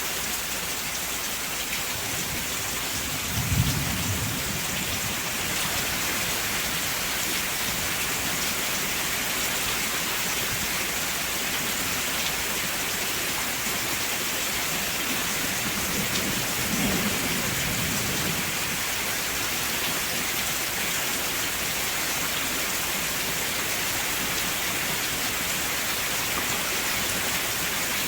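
Steady heavy rainfall, a dense even hiss. Two short low rumbles of thunder come through, about three seconds in and again around seventeen seconds.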